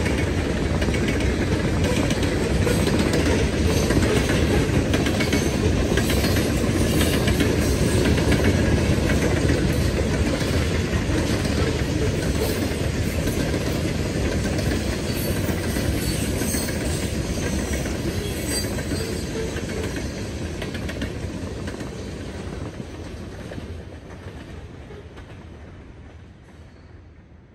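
Coal hopper cars of a freight train rolling past, with steel wheels running on the rails in a steady noise. The sound fades away over the last several seconds as the end of the train passes and moves off.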